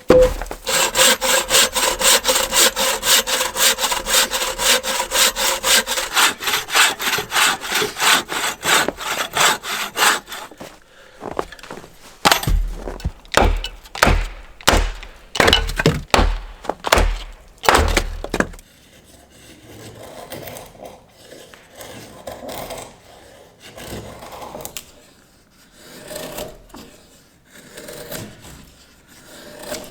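A saw cutting wood in fast, even back-and-forth strokes, about four a second, then slower, heavier strokes with low thuds for several seconds. After that, quieter rubbing and handling noises.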